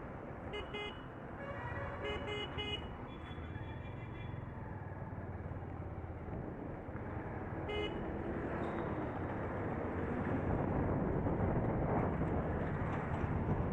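Vehicle horns honking in busy road traffic: several short toots in the first three seconds, a longer held tone after them, and another toot about eight seconds in, over steady road and engine noise that grows a little louder toward the end.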